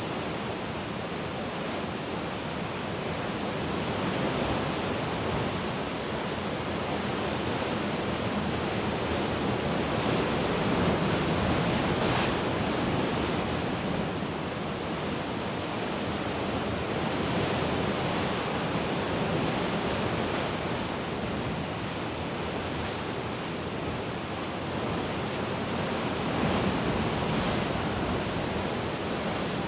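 Mediterranean sea waves washing against the shore in a continuous rushing surf that swells and ebbs every few seconds, with a little wind on the microphone.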